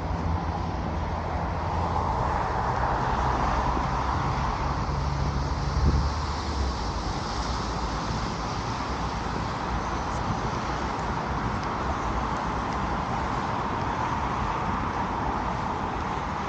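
City road traffic: passing cars' tyre and engine noise swelling and fading, with a low engine rumble in the first half and a single thump about six seconds in.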